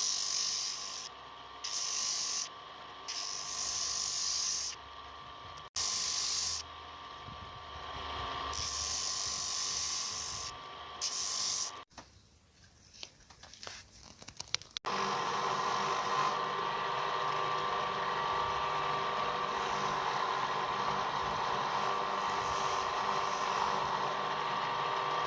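Electric shop tool running, with a hissing grinding noise starting and stopping over and over across several short cuts. Near the end a motor runs with a steady hum.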